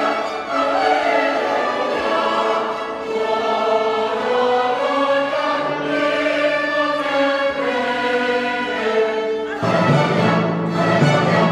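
A choir singing sustained notes with instrumental accompaniment. Near the end, deeper bass notes join in and the sound grows fuller.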